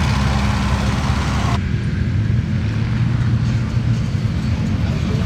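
A vehicle engine running steadily with a low hum; the higher hiss and noise above it drop away abruptly about a second and a half in while the engine hum continues.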